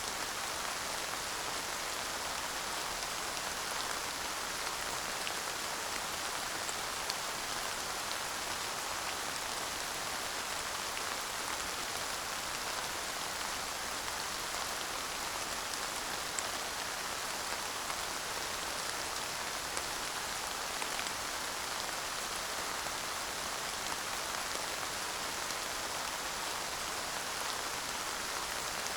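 Steady light rain falling, an even patter with the odd louder drop.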